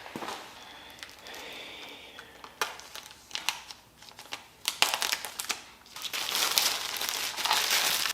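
Crinkling and rustling handling noises with scattered sharp clicks, then a steady hiss over the last two seconds or so.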